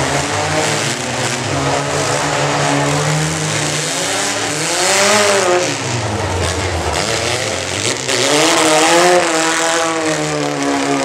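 Compact pickup truck engine revving hard, its pitch climbing about four seconds in, dropping near six seconds, then climbing again and holding high.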